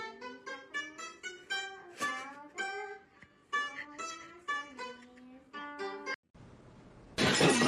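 Music: a plucked string instrument picks out a melody of single notes and stops about six seconds in. A loud rushing noise starts near the end.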